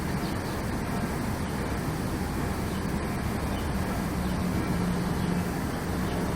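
A low, steady droning hum over a constant rumbling noise, the hum growing stronger about four seconds in and easing again near the end; its source is unidentified.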